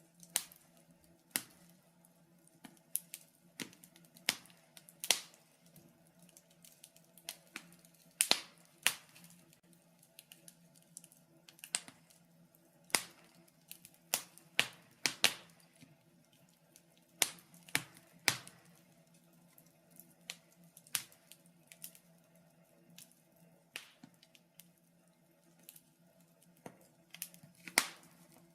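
Wood fire in a fireplace crackling, with sharp irregular pops about one or two a second, a few louder ones among them, over a faint steady low hum.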